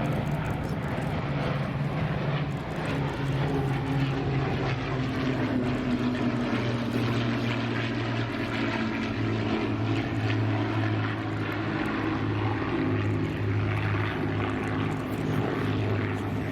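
Piston-engined propeller aircraft in flight, a steady multi-engine drone. One engine tone sinks slightly in pitch a few seconds in.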